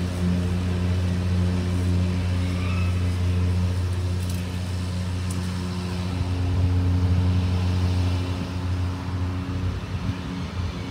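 EGO 56-volt battery lawn mower with the Select Cut multi-blade system running while mowing and bagging grass: a steady electric motor and blade hum, swelling slightly about two-thirds of the way through.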